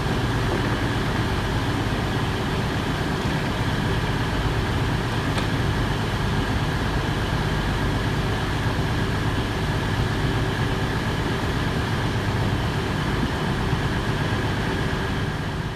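A train standing at a station platform, running with a steady low hum and no change in pitch or loudness.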